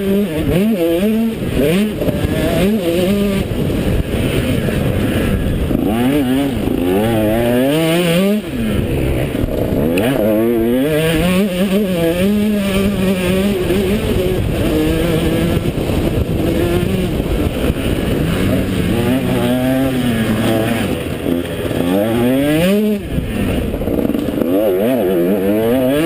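A KTM motocross bike's engine revs up and falls back over and over as it is ridden hard around a dirt track.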